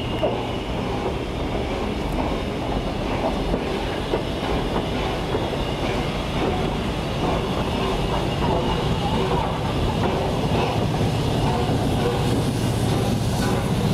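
LNER A1 Peppercorn Pacific steam locomotive 60163 Tornado on the move, a steady rumble with occasional clicks from wheels on rail.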